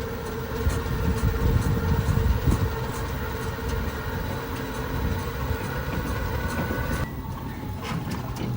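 A vehicle running: a steady low rumble with a droning hum and faint regular ticks, changing in tone about seven seconds in.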